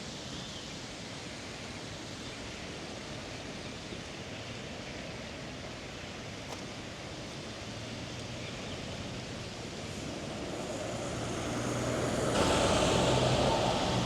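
Steady hum of city street ambience, with a road vehicle approaching in the last few seconds: its low engine hum and tyre noise grow louder and peak near the end.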